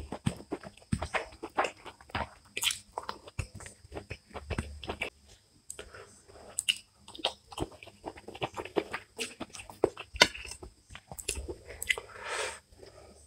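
Close-miked eating of rice and curry: chewing and wet mouth clicks and smacks, with fingers squishing and mixing rice on a plate. About twelve seconds in a longer, softer rustling sound comes as curry is tipped from a bowl onto the rice.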